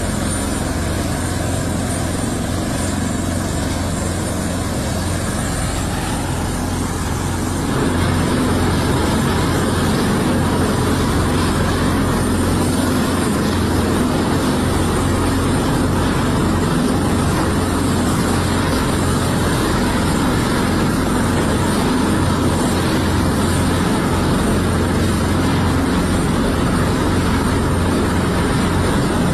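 Helicopter rotor and turbine noise, steady and continuous, getting louder about eight seconds in.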